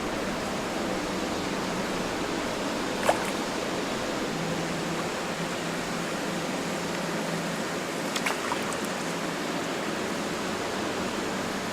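Steady rush of flowing river water, with one sharp knock about three seconds in and a few light clicks about eight seconds in.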